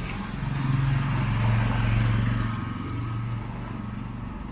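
A motor vehicle's engine passes close by on the street. Its hum grows louder about a second in and fades away after the second second.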